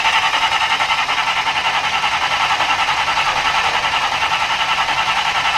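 Race car's engine being spun over by its starter before firing, a steady rapid mechanical chatter pulsing about eight times a second.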